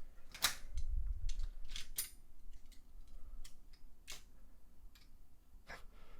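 Scattered sharp plastic clicks and clacks, about six in all, with a low knock near one second in, from the pieces of a toy die-cast car drag track and its cars being handled and adjusted.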